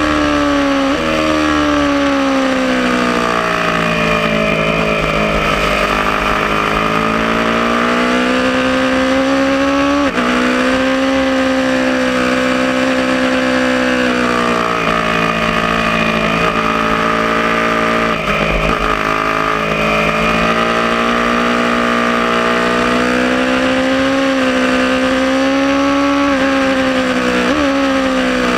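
Aprilia Tuono motorcycle engine under hard riding, its pitch climbing and falling with the throttle, with sudden pitch jumps at the gear changes about a second in, around ten seconds in, near eighteen seconds and near the end.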